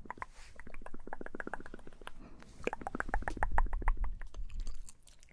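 Close-miked ASMR mouth sounds: quick, wet tongue and lip clicks, several a second, with a low rumble from breath on the microphone in the second half.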